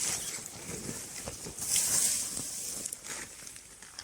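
Rustling and crinkling handling noise: swells of hiss, the strongest about halfway through, with scattered faint clicks.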